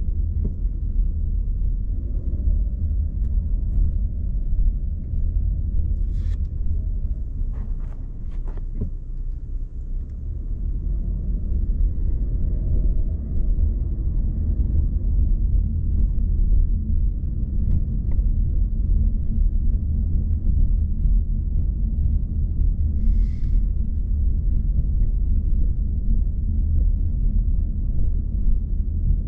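Steady low rumble of a car driving: engine and road noise. A few faint ticks and a short hiss break through it.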